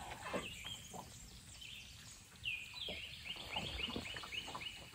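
A wild bird calling: a short call near the start, then, about halfway through, a quick run of about eight short high notes, each falling in pitch. A few faint knocks sit under it.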